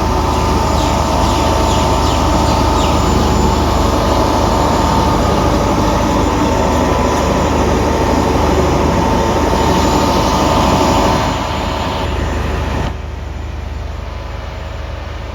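Engine-driven flood dewatering pumps running with a steady drone and a steady whine. The sound steps down about eleven seconds in and again about two seconds later.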